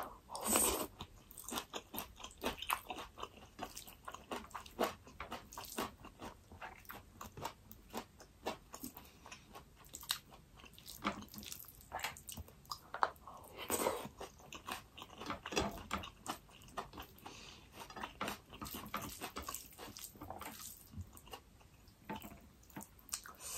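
Close-miked chewing and biting of a person eating rice and curry by hand: a dense, irregular run of small mouth clicks and smacks.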